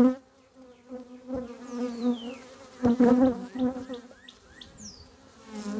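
Honey bees buzzing around an open hive during a frame inspection: a steady hum with single bees flying close past, the sound swelling loudly at the start and again about three seconds in.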